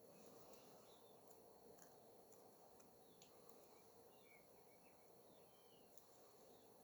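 Near silence: faint steady background hum with a few scattered faint ticks and chirps.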